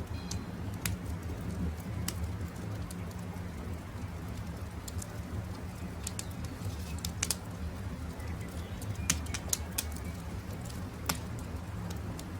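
Campfire crackling, with scattered sharp pops over a steady low rumble. Faint bird calls come through now and then.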